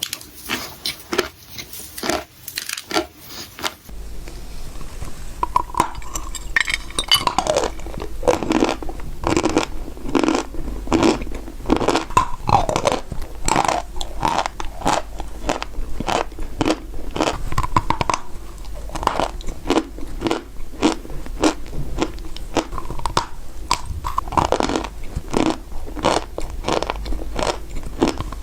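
A person biting and chewing dry clay close to the microphone: rapid, dense crunches that go on without a break.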